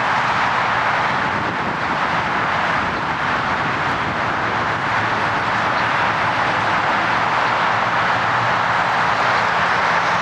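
Boeing 747-400 jet engines running, a loud steady rush with a faint low hum underneath.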